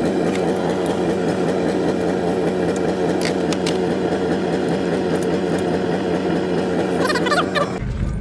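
A motor or engine running steadily at a constant pitch, a dense, even mechanical drone, which breaks off abruptly shortly before the end.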